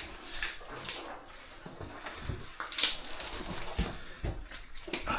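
Boots squelching and splashing through wet cave mud, in irregular steps, with a sharper splash a little under three seconds in.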